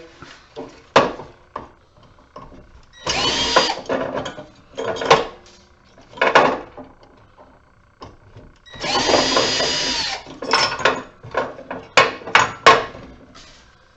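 Power drill-driver with a 1/4-inch nut driver bit, backing fasteners out of a metal HID light fixture. It makes two short whining runs, about a second each and several seconds apart, with clicks and knocks of metal parts in between.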